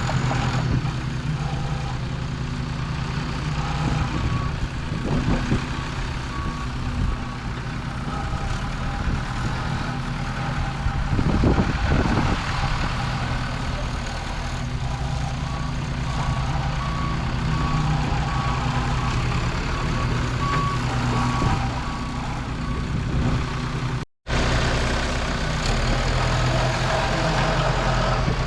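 Diesel engine of a skid steer or backhoe running steadily while moving dirt, briefly louder about eleven seconds in. In the second half its backup alarm beeps repeatedly as it reverses.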